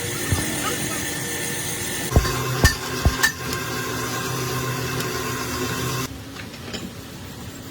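Four or five sharp metallic knocks, like tools or parts being handled, over a steady hum that cuts off suddenly about six seconds in.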